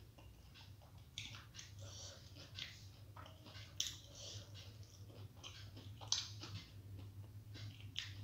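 Close-miked chewing of steamed vegetable momos: soft, irregular mouth sounds with a few sharper clicks, over a low steady hum.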